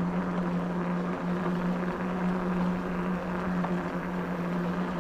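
Electric bike motor whining at one steady pitch while riding, over a steady rushing noise.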